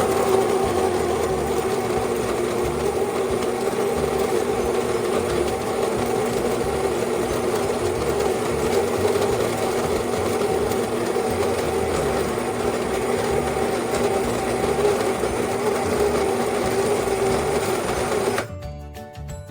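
Espresso machine's pump buzzing steadily, then cutting off suddenly near the end.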